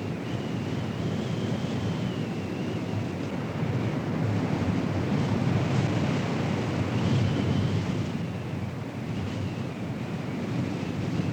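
Strong wind rumbling and buffeting the microphone in a steady roar that swells in the middle, with a faint wavering high tone above it.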